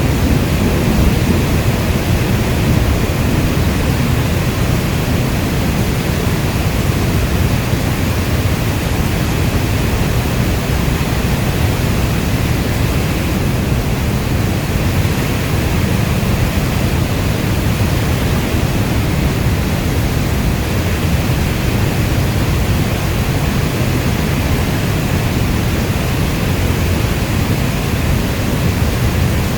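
Steady heavy rainfall, a dense even rush weighted toward the low end, with no separate drops or thunderclaps standing out.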